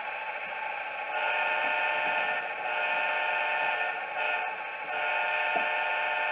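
Model diesel locomotive's Tsunami 2 sound decoder sounding a multi-tone air horn through the locomotive's small speaker: two long blasts, one short, then a long one, the grade-crossing pattern. The decoder's diesel engine sound runs underneath.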